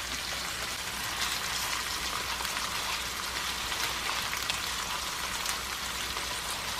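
Tofu noodles, shrimp and vegetables sizzling in olive oil in a nonstick frying pan, a steady crackling hiss with small pops, while the noodles are tossed through the oil.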